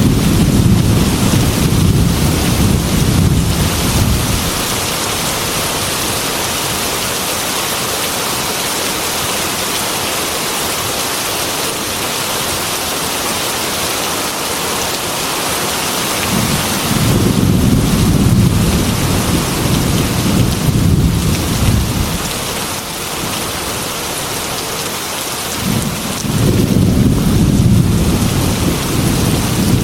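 Heavy rain pouring steadily on a metal roof, with rolling thunder rumbling three times: at the start, fading about four seconds in, again about midway, and once more near the end.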